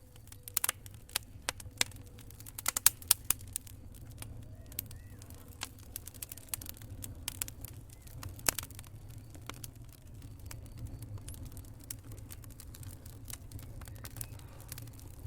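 Wood campfire crackling and popping in irregular sharp snaps, densest in the first few seconds, over a low steady rumble of the burning fire.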